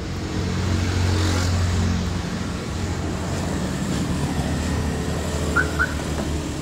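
A motor vehicle engine running close by: a steady low drone, louder for the first two seconds and then even. Two short, high chirps sound near the end.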